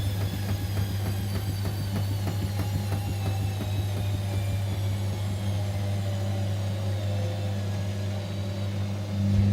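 Whirlpool washing machine's drum motor whining down, its pitch falling slowly and steadily as the drum slows, over a constant low hum. There is a brief louder surge near the end.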